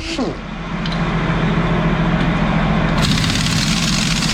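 An engine running steadily at idle with a low, even hum, and a burst of hiss about three seconds in that lasts over a second.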